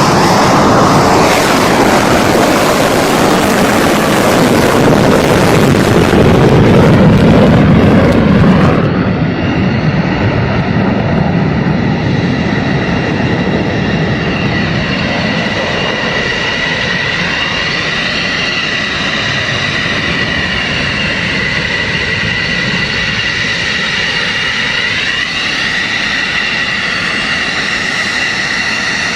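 F-15 fighter jet engines: a loud jet roar that drops in pitch over the first several seconds as the jet passes. After a cut about nine seconds in, a quieter, steady high-pitched turbine whine of twin jet engines follows.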